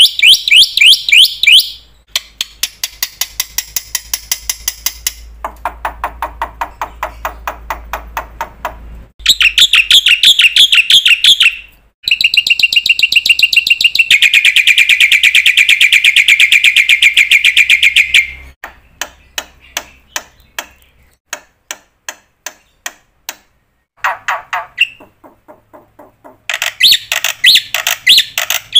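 A series of different high-pitched chirping and trilling bird-like calls, each kind repeating rapidly for a few seconds before switching abruptly to another, with a stretch of fast clicking about two-thirds of the way through.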